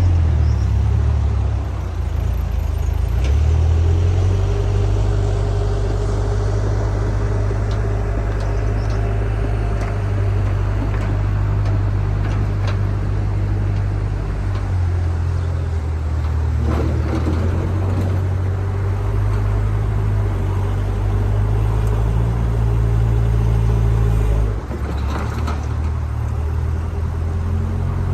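Diesel engine of a JCB backhoe loader running, its low drone shifting up and down in pitch every few seconds as the load changes, with a few short knocks.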